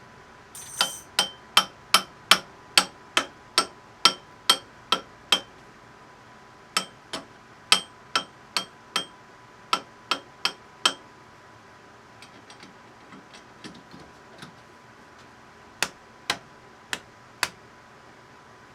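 Hammer blows on metal, each with a short metallic ring, struck about two and a half times a second in runs: about a dozen, a brief pause, about nine more, a few light taps, then four more.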